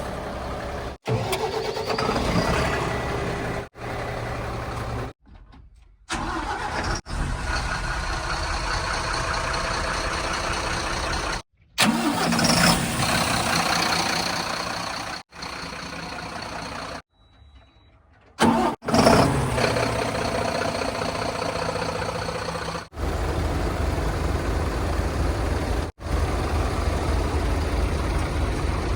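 Diesel engines of heavy earth-moving vehicles (backhoe loader, tipper trucks, tractors) running and revving. The sound cuts off and restarts abruptly many times.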